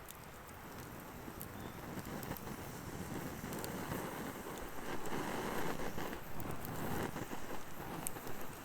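Wood fire burning in a fire pit, with scattered sharp crackles and pops over a steady rush that swells louder in the middle.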